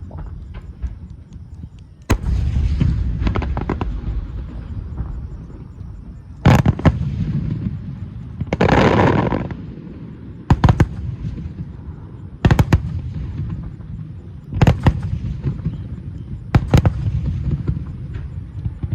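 Aerial fireworks shells bursting: sharp bangs about every two seconds, each trailing off in a low rumble, with about a second of dense crackling hiss a little before the middle.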